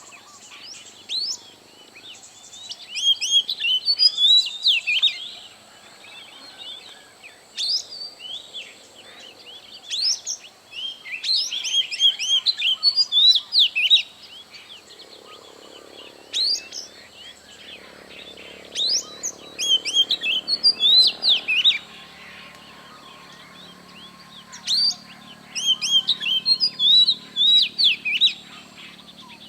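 A wild songbird singing phrases of quick, high chirping notes, one to three seconds long, repeated every few seconds, over a faint steady high-pitched whine.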